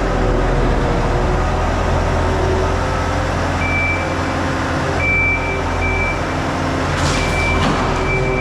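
Skid steer loader's engine running under load, its pitch shifting slightly as it works. A reversing beeper sounds in short beeps from about three and a half seconds in, and there is a brief clatter about seven seconds in.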